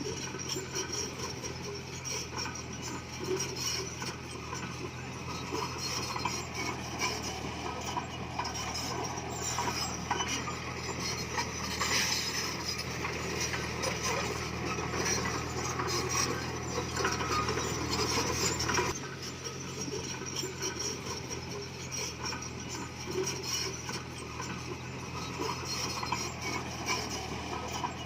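Komatsu D20P bulldozer's diesel engine running steadily under a constant clatter and clink of tracks and pushed stone. It grows louder for a stretch and drops off abruptly about two-thirds of the way through.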